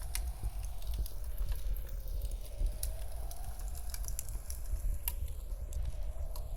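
Wood fire crackling, with irregular sharp pops over a steady low rumble, and blizzard wind howling softly behind it.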